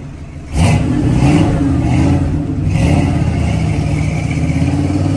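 V8 engine of the Eleanor 1967 Ford Mustang fastback movie car being revved. It dips briefly, then picks up sharply about half a second in, with the pitch rising and falling several times.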